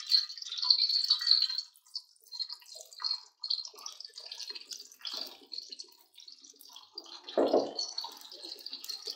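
Cut okra (bhindi) sizzling and crackling in hot oil in a steel karahi as pieces are dropped in to fry, with a louder spell of sizzling about seven and a half seconds in.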